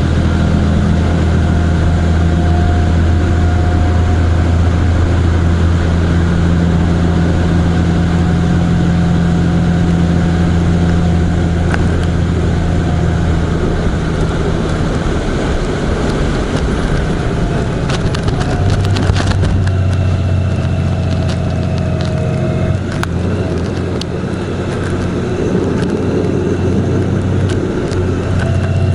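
Vehicle running along a road: a steady low engine drone with road noise, shifting pitch a little about two-thirds through, and a brief cluster of sharp clicks at about the same point.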